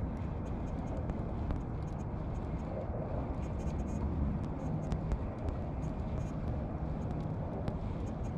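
Boat motor running steadily at trolling speed, with scattered light clicks over it.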